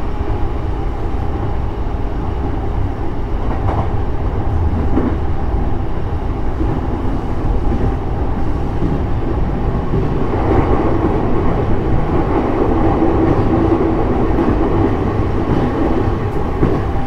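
JR East E531 series electric train running on the Joban Line, heard from inside the car: a steady rumble of wheels on track with faint steady motor tones, growing a little louder about ten seconds in.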